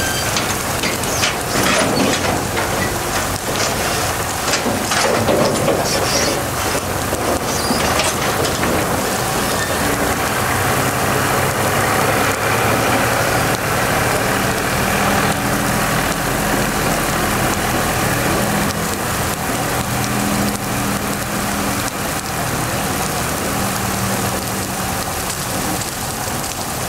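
Steady heavy rain, with sharp crackles through the first eight seconds or so and faint steady low tones joining about ten seconds in.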